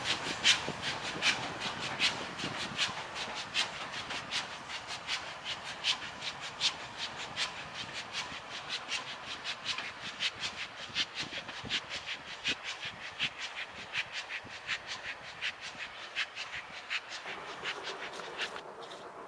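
Railway train wheels clicking over rail joints, a run of a few clicks a second that slowly fades and stops near the end.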